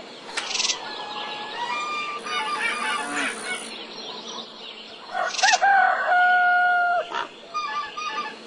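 A rooster crowing: a loud crow about five seconds in that rises and then holds a long level note for about a second, with a fainter crow near the start. Small birds chirp throughout.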